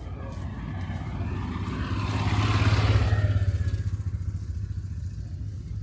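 A car driving past close by with a deep engine rumble. It grows louder to a peak about three seconds in, then fades as it moves away.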